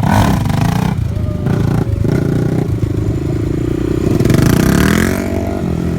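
Suzuki LTR 450 ATV's single-cylinder four-stroke engine running hard and revving, its pitch climbing about five seconds in.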